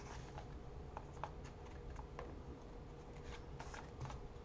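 1996-97 Topps Stadium Club basketball cards being handled and shuffled through, with faint scattered clicks and soft slides, over a faint steady hum.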